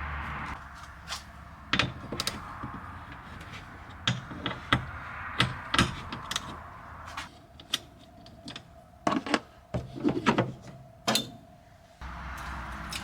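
Irregular clicks and knocks, a dozen or more, sharp and short, over a quiet background.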